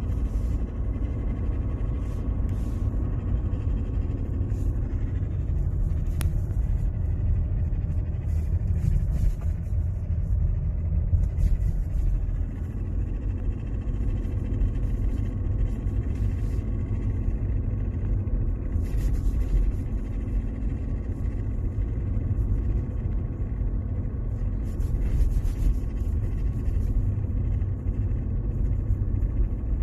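Mercedes-Benz W203 running, with a steady low rumble and irregular bursts of clicking and rattling from under the automatic gear selector area. The noise comes from the parking brake cable catching on the propeller shaft because its retaining clips are broken.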